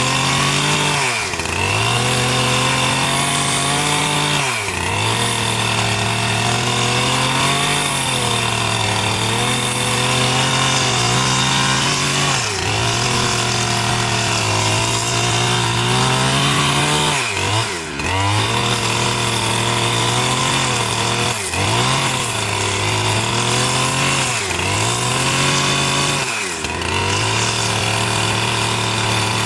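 Chainsaw running under load while cutting timber. Its steady engine tone drops sharply and recovers about seven times as the chain bogs in the cut.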